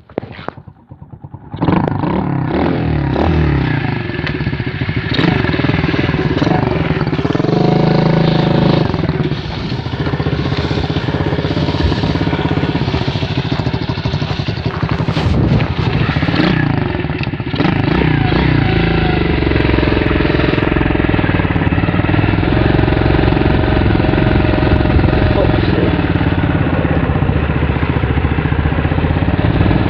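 Four-stroke engine of an M2R KX110F pit bike catching after a few short knocks about a second and a half in, then running steadily. It is revved briefly, rising and falling in pitch, around eight seconds in.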